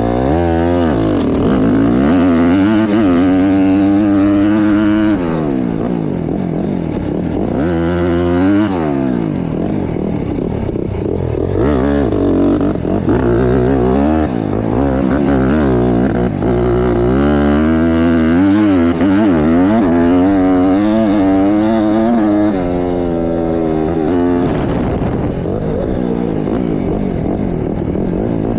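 Honda CRF150RB motocross bike's four-stroke single-cylinder engine being ridden hard, revving up and dropping back over and over, its pitch climbing and falling every few seconds.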